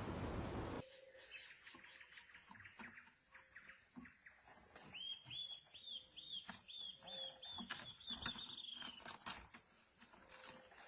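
Songbirds singing faintly: scattered short chirps, then about five seconds in a quick run of about ten evenly repeated whistled notes lasting about four seconds. A loud hiss fills the first second and cuts off suddenly.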